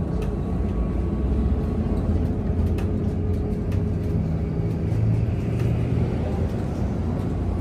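VMZ Avangard trolleybus under way, heard as a passenger: a steady low rumble of road and running gear with a shifting electric traction hum and a few faint rattles.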